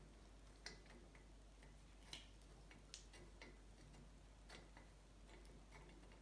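Faint, scattered light clicks and taps at uneven intervals, from hand work on a bicycle's bottom bracket, over low room hum.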